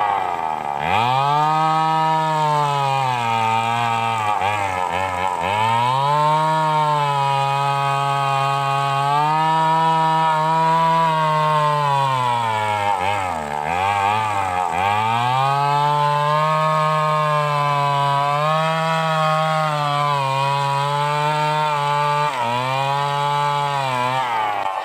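Stihl 038 two-stroke chainsaw running at high revs while cutting wood. Its pitch sags and recovers several times as the chain loads up and the throttle eases.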